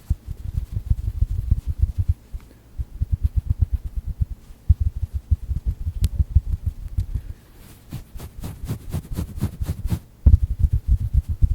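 Fingers tapping and patting a stuffed duck plush toy close to the microphone, making rapid, muffled low thuds. For about two seconds near the end, a quick run of about ten sharper clicks joins in.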